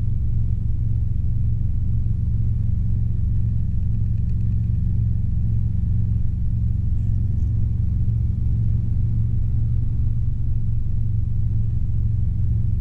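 Steady drone of a Robinson R22 helicopter's engine and rotors heard from inside the cabin in a steady climb, a constant low hum with no change in pitch.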